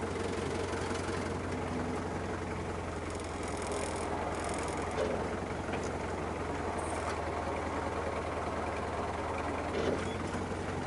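Fiat 640 tractor's diesel engine running steadily as it loads manure with its front loader, with a brief louder knock about five seconds in and another near the end.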